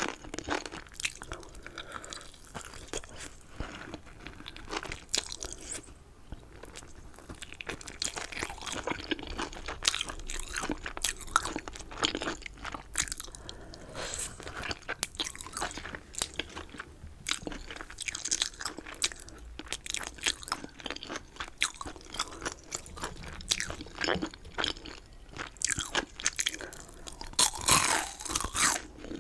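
Close-miked chewing of chicken, with dense, irregular crisp crunches throughout. A louder cluster of crunches comes near the end.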